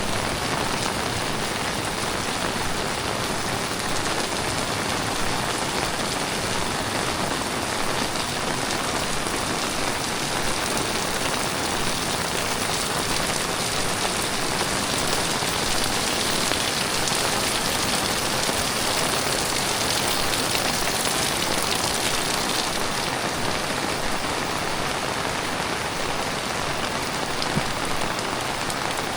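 Heavy tropical rain falling steadily, an even hiss with no pauses, a little brighter about halfway through.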